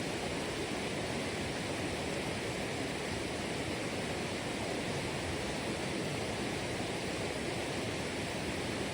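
Steady rush of flowing water, an even hiss with no rise or fall.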